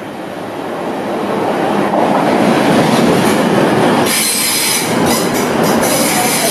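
TransPennine Express train running through the station at speed without stopping. Its rumble builds over the first two seconds as it comes in; from about four seconds in, as the carriages rush past close by, there is a loud rushing hiss with thin high wheel squeal and a few wheel clicks over the rail joints.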